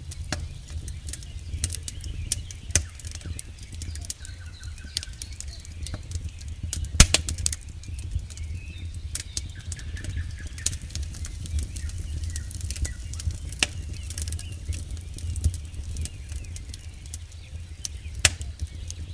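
Campfire burning, with wood crackling in irregular sharp pops, the loudest about seven seconds in, over a steady low rumble.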